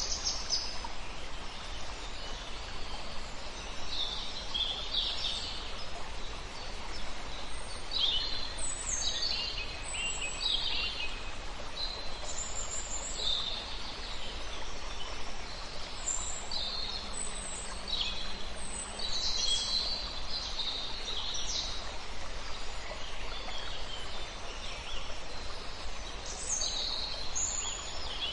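Several songbirds chirping and singing in short, high calls and trills, scattered throughout, over a steady rush of flowing river water.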